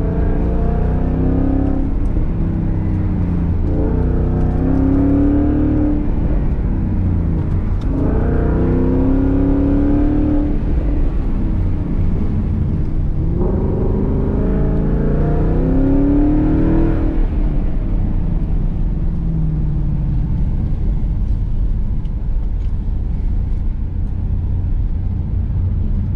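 Ford Mustang's engine on an autocross course: four hard pulls with the engine pitch rising, each cut off abruptly when the throttle comes off, then a lower steady rumble for the last eight seconds or so.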